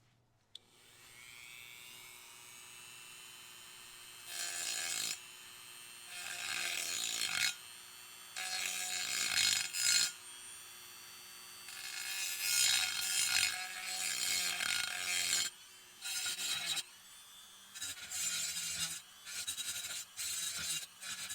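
Small rotary grinding tool spinning up and running steadily, with repeated bursts of harsh grinding as the burr is worked over the cast aluminium of the engine block's oil passages to deburr and smooth them.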